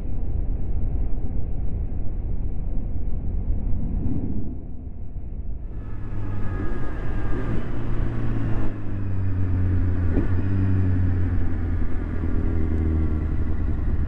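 Motorcycle riding on the road: engine running under a low, muffled rumble of wind and road noise. About six seconds in, the sound cuts to a clearer engine note that shifts in pitch as the bike rides on.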